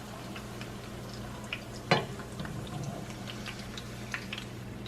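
Hot oil in a frying pan crackling with scattered small pops as a corn tortilla fries, over a steady low hum. A single sharp knock about two seconds in.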